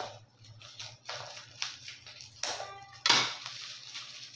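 Scissors snipping through clear plastic packaging, with the plastic crinkling as it is handled: a series of short, sharp snips and crackles, the loudest about three seconds in.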